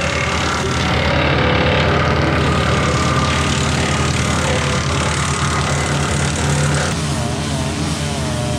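A TYM 574 tractor's diesel engine running steadily while it drives a PTO wood chipper. From about seven seconds in, the higher tones waver up and down as the load on the machine changes.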